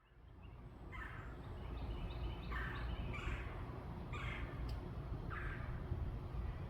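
A bird gives four harsh calls about a second and a half apart, while smaller birds chirp softly. A steady low rumble runs underneath. The sound fades in over the first second.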